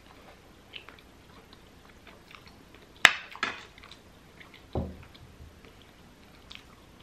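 Close-up chewing and wet mouth sounds of someone eating garlic naan wrapped around butter chicken, with small scattered clicks. A sharp click comes about three seconds in, followed soon after by a smaller one and then a dull low thump.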